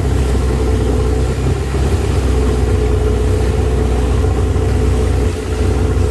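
Longtail boat engine running steadily: a low, even drone with a constant higher hum.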